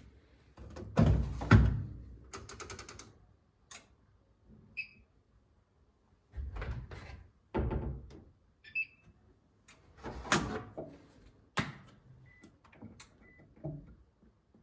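Everyday handling sounds: scattered knocks and thuds, a quick run of clicks about two seconds in, and a couple of short high clinks.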